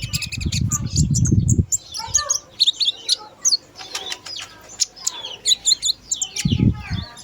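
Small caged songbird singing a fast, chattering run of high chirps and twittering notes, with loud wing-flapping flutters at the start and again briefly near the end.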